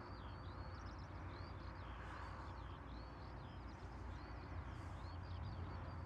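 Small birds chirping, many short quick chirps close together, over a low steady rumble.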